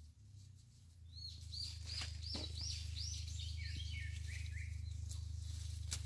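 A bird singing a quick series of repeated slurred whistles, about three a second, starting about a second in and dropping to a lower-pitched run halfway through, over a steady low hum.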